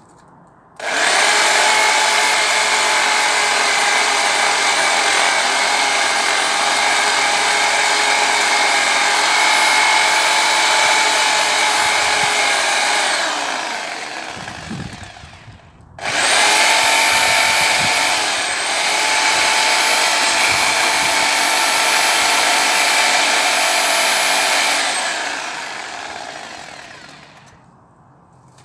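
Power saw cutting a tree, run twice: each run starts abruptly with a steady high whine and winds down slowly after release. The first run lasts about twelve seconds and the second about nine, with a brief dip in pitch early in the second.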